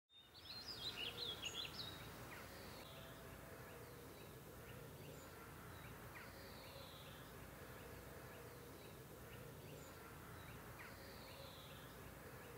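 Faint birds chirping over a steady outdoor ambience. A quick run of high twittering chirps comes in the first two seconds, then scattered single chirps and a few falling calls.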